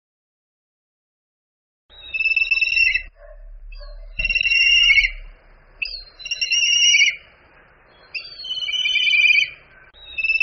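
A bird of prey calling: five high-pitched, quavering calls of about a second each, roughly two seconds apart, the first about two seconds in.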